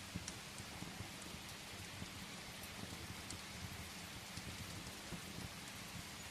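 Steady rain pattering against a window, with a few faint sharp pops from a wood fire crackling in a fireplace.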